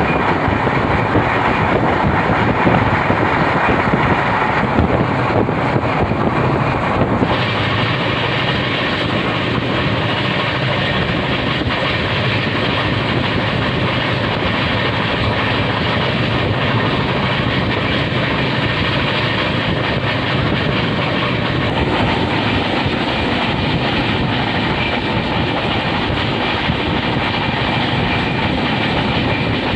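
Passenger train running at speed, heard from an open coach doorway: the steady rumble and clatter of wheels on the track. For the first several seconds another train passing close on the next track adds to the noise, which changes abruptly about seven seconds in.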